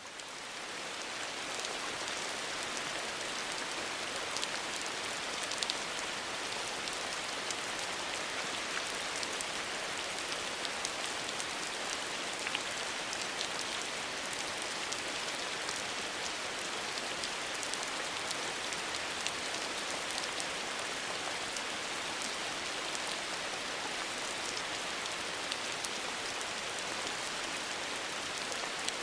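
Steady rain falling from the eaves of a traditional Korean hanok roof: an even hiss with scattered sharp drop ticks, fading in over the first second or so.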